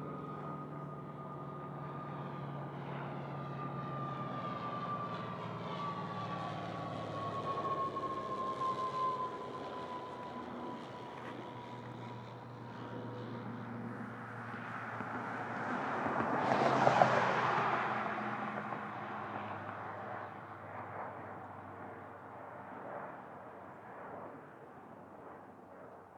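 Aircraft flying over, its engine whine slowly falling in pitch as it passes. A broad rushing noise swells to its loudest about two-thirds of the way through, then fades.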